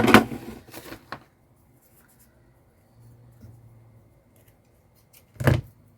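Craft materials being handled on a tabletop: a loud rustle and a couple of clicks in the first second, then quiet, then a single short knock about five and a half seconds in.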